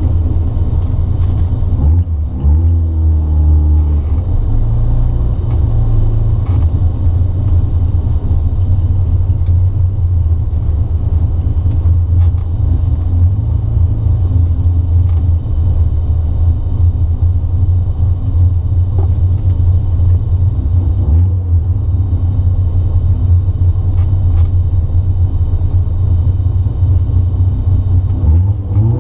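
Turbocharged 13B rotary engine of a 1972 Mazda RX2 idling steadily, heard from inside the cabin. The throttle is blipped briefly about two seconds in, and the revs rise again near the end.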